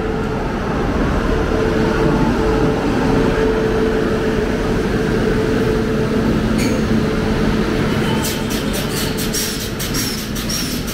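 A WAP-7 electric locomotive rolling past alongside the platform with a steady hum, followed by its train, whose wheels knock in a quick run of clicks over the rail joints from about eight seconds in.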